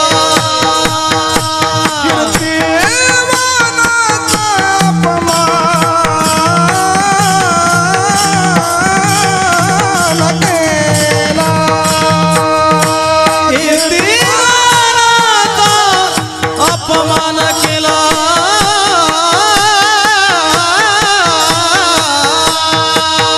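Marathi kirtan: a male singer sings a slow devotional abhang in long, gliding, ornamented phrases. A steady held drone and a regular drum beat accompany him.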